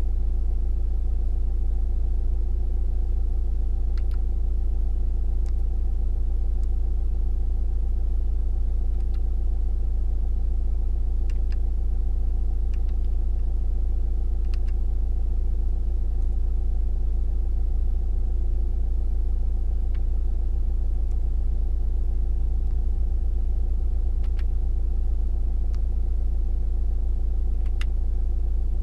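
Nissan 1.5 dCi four-cylinder turbo-diesel engine idling steadily, with a deep, even hum and a few faint ticks.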